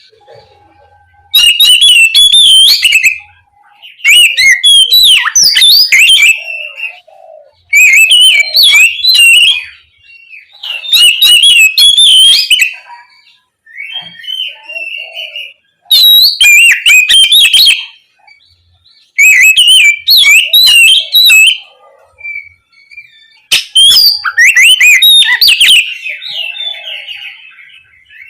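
Oriental magpie-robin (kacer) singing loudly in full voice: about seven quick, varied phrases of whistled notes, each about two seconds long, with short pauses and a few soft notes between them.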